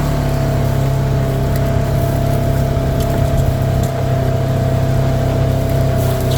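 Vehicle engine running steadily at an even speed: a low drone with a steady higher whine above it.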